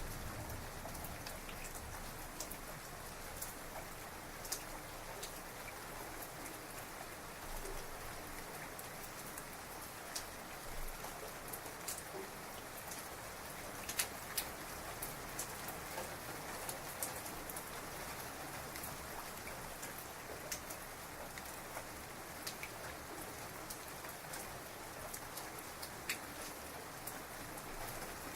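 Heavy rain falling steadily, with individual drops striking a nearby surface as sharp ticks scattered throughout; two louder drop hits come about halfway through.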